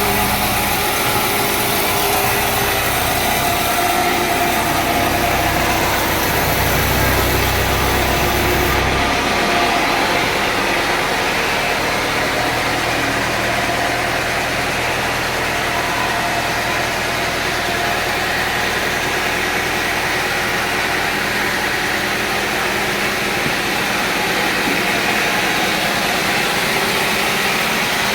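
Sawmill engine running steadily with mechanical noise. About nine seconds in, a deep rumble and a high hiss drop away, and the engine carries on at a steady level.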